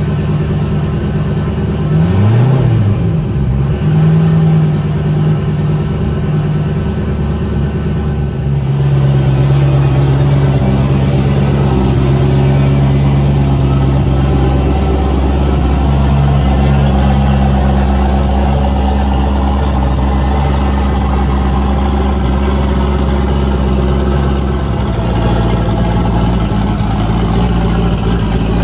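Turbocharged 5.3-litre LS V8 running at a steady fast warm-up idle, held by a Holley Terminator EFI idle air control valve that is now controlling the idle correctly. The pitch briefly rises and falls about two seconds in, and the sound grows slightly louder and fuller about nine seconds in.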